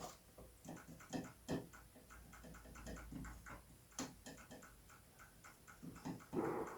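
Plastic keys of a Casio CTK-7300IN keyboard being pressed over and over, a quick irregular run of light clicks and taps from the key action, with a louder knock near the end. The repaired key clicks without the friction noise it had before the fix.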